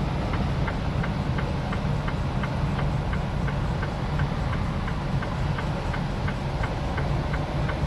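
Semi truck heard from inside the cab running down a snowy highway on tire chains: a steady low engine and road rumble with a quick regular ticking, about three ticks a second, from the chains striking as the wheels turn.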